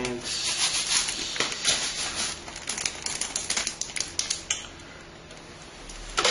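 Computer parts being handled: rustling with many small clicks and taps, easing off briefly near the end before picking up again.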